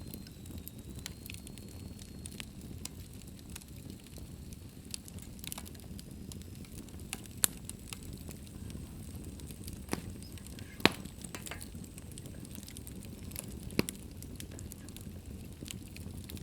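Wood fire crackling in a fireplace: a steady low rumble of burning with scattered sharp pops, three of them louder in the second half.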